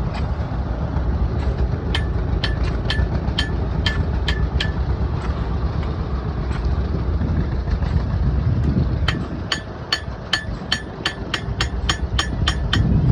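Blacksmith's hammer striking an anvil with a bright ringing tone: a run of about seven blows about two seconds in, then after a pause a faster run of about fifteen blows that quickens near the end. A steady low engine rumble runs underneath.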